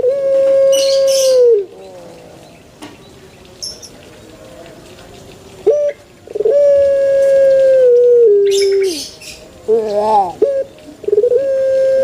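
Male Barbary dove (burung puter) cooing: three long, steady coos about five seconds apart, each dropping in pitch at the end, the second and third led in by a short rising note. Brief high chirps sound in the background.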